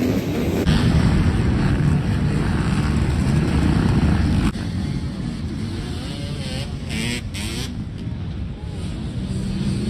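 Dirt bike engines running hard and revving on a race course, the pitch rising and falling, with abrupt changes about half a second in and about halfway through.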